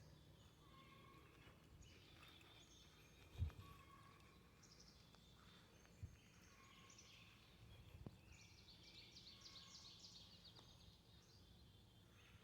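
Faint outdoor quiet with birds chirping and trilling, a rapid trill near the end, and a few soft thumps, the sharpest about a third of the way in.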